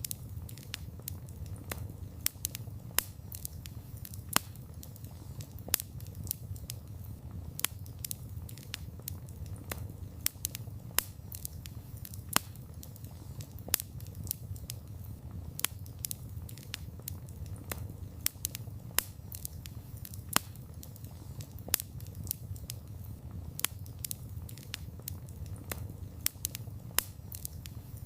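Campfire of burning wood crackling: frequent sharp pops and snaps at irregular intervals, several a second, over a steady low rumble of the flames.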